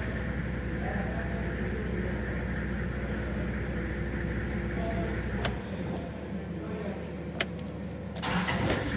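Toyota Land Cruiser engine idling just after being started with its repaired starter clutch drive (bendix), now no longer slipping. Two sharp clicks come about five and a half and seven and a half seconds in, and near the end a brief burst as the engine is cranked and catches again.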